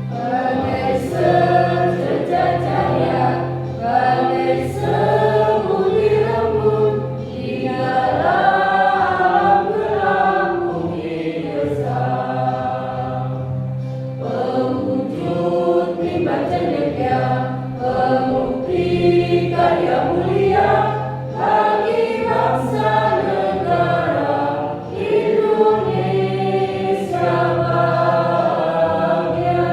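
A choir singing a song together over an instrumental accompaniment that has a steady low bass line.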